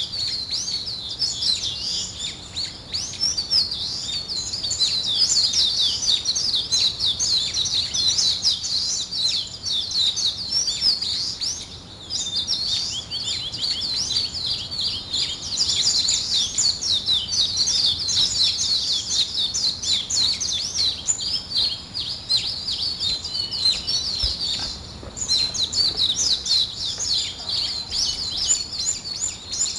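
Many small birds chirping and twittering at once, a dense, high-pitched chorus of quick overlapping calls that thins briefly twice.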